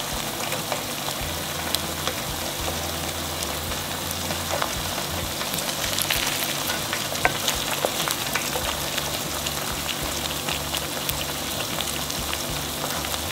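Eggs frying in hot oil and butter in a pan, a steady sizzle with scattered small crackles, left to set before they are stirred in.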